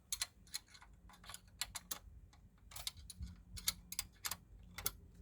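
Irregular light metal clicks of a spanner tightening a nut fitted with a lock washer on a floor jack, a few clicks a second.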